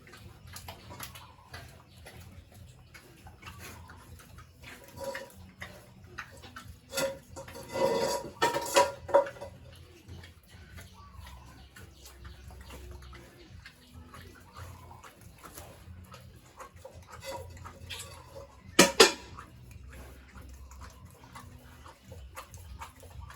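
Metallic clatter and scattered knocks, as of metal gear being handled in a pig pen. A louder run of clattering comes about a third of the way in, and a sharp double bang comes about four-fifths of the way in.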